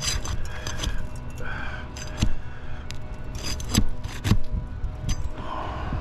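Irregular scraping and sharp clicks of a tool working under a sealed asphalt shingle, with a few louder knocks, as the shingle tears at its tight adhesive strip.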